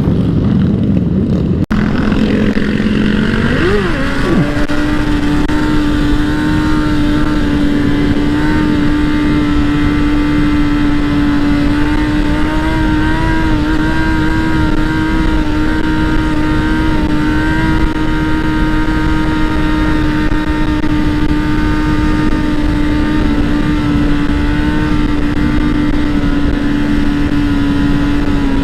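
Dirt bike engine running while riding, its pitch climbing about three to four seconds in and then holding steady at a constant speed, over a heavy low rushing noise.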